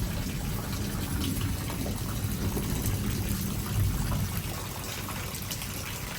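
Heavy rain pouring down steadily, with the low rumble of a close thunderclap dying away over the first four seconds or so.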